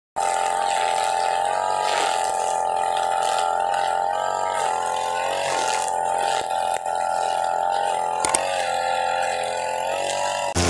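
Two-stroke engine of a UM328 brush cutter running at high revs while its nylon line cuts grass, the engine note wavering and dipping briefly as the line meets the grass. The sound starts and stops abruptly.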